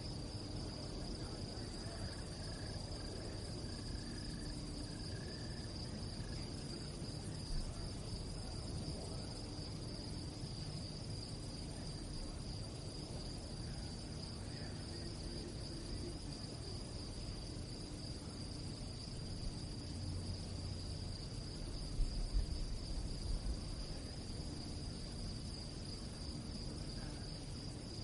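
Crickets singing at night: a continuous, steady high-pitched trill. A low rumble runs underneath, with a few low bumps about three-quarters of the way through.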